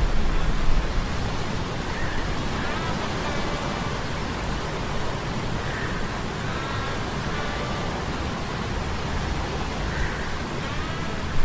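Sea storm sound effect, a steady rush of wind and waves, mixed with a low humming of metal gears. Faint whining tones come back every few seconds over the rush.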